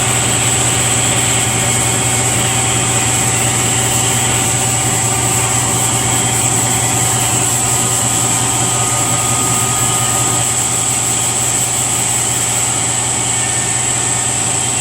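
Shop air compressor running with a steady, loud hum and a constant high whine.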